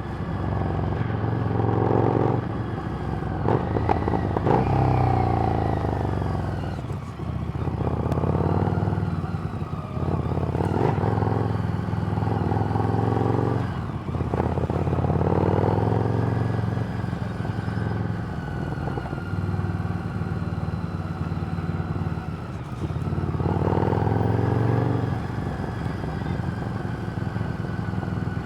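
Harley-Davidson Street Rod's 750 cc V-twin running through a Screamin' Eagle exhaust while ridden on the road. The note swells and eases every few seconds as the throttle opens and closes, with one long falling note around five seconds in.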